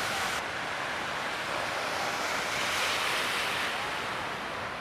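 Ocean waves breaking and washing, a steady rush of surf noise that swells slightly about three seconds in.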